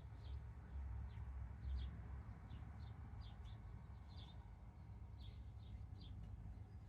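Small birds chirping outdoors: short, high chirps repeating irregularly, about one or two a second. Under them runs a steady low rumble, strongest about two seconds in.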